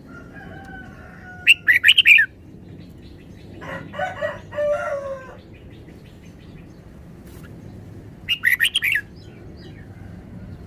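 Red-whiskered bulbul singing two short bursts of quick, bright notes, about a second and a half in and again about eight seconds in. Between them a rooster crows once.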